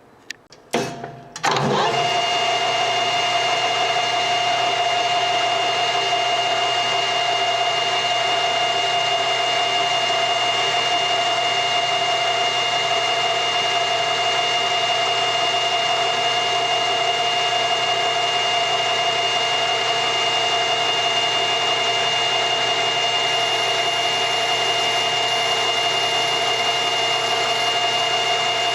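Washino LR55A engine lathe switched on with a couple of clicks, its spindle coming up to speed within about a second and then running steadily with a constant whine. A faint high tone joins near the end.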